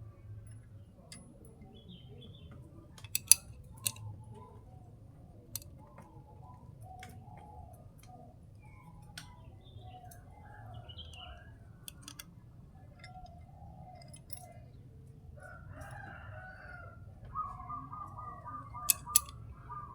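Chickens and a rooster calling: a string of wavering clucks and crows, with a quick run of repeated notes near the end. A few sharp knocks cut through, the loudest a pair about three seconds in and another pair near the end.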